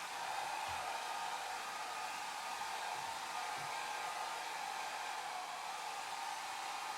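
Hair dryer blowing steadily, a constant airy rush with a hum in the middle range, used as white noise.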